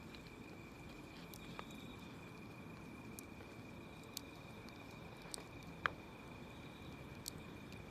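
Wood fire burning with a soft, steady crackle and a few sharp pops, the loudest about six seconds in.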